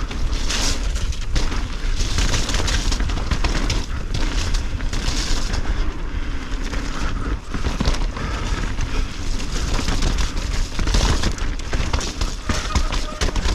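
A Canyon mountain bike descending a wet, rooty trail: tyres running over dirt and roots, with the chain and frame clattering in constant small knocks. A steady low rumble of wind buffets the action camera's microphone.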